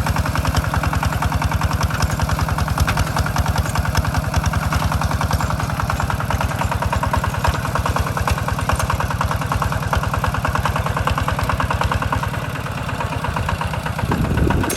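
Tractor engine running with a steady, rapid chug. Near the end the deep pulsing thins out, and a short louder surge comes just before the end.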